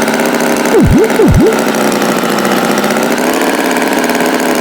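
Tractor engine running steadily, a cartoon sound effect. About a second in come two quick swoops that drop sharply in pitch and rise again.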